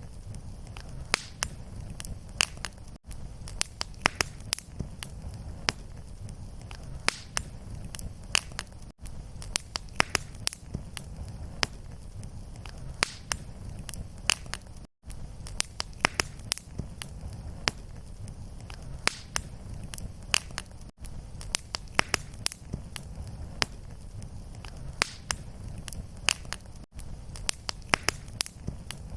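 Wood fire crackling: a steady low rumble of flame under frequent, irregular sharp pops. The sound drops out briefly about every six seconds where the short fire loop restarts.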